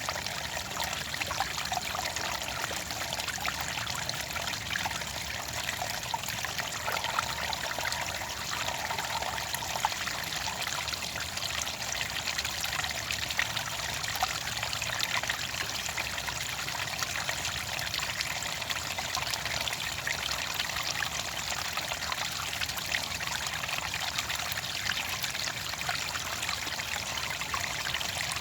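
Water trickling and splashing steadily, like a small stream running over stones, with a bright, fine-grained patter that does not let up.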